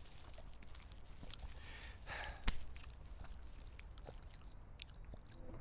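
Close mouth sounds of a man eating a sandwich: chewing with many small wet clicks, a breath out about two seconds in, then one sharp click.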